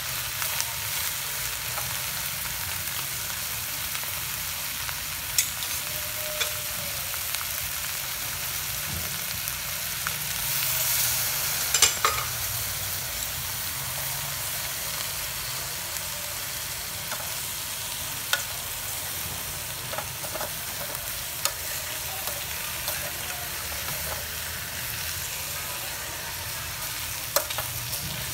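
Button mushrooms with chopped herbs sizzling as they fry in a metal pot, stirred with a metal spatula that clicks and scrapes against the pot now and then. The sizzle swells louder for a moment about eleven seconds in.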